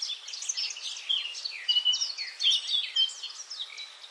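A chorus of several songbirds chirping at once: many quick, overlapping chirps and short whistled glides at different pitches.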